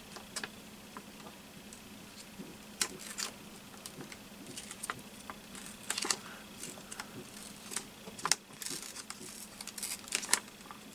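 Paper and small craft tools being handled on a tabletop: scattered light taps and clicks with short paper rustles, over a faint steady hum.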